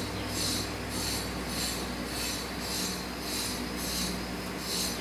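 A steady low hum with a soft hiss that swells and fades evenly, a little under twice a second.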